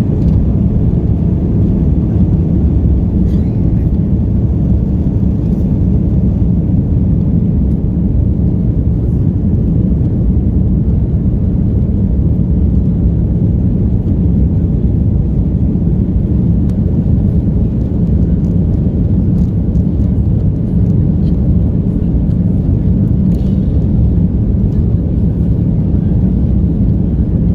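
Cabin noise inside an Airbus A330-300 powered by Rolls-Royce Trent 700 engines. The jet engines and airflow make a steady, loud low rumble, with a few faint light rattles, around the takeoff phase.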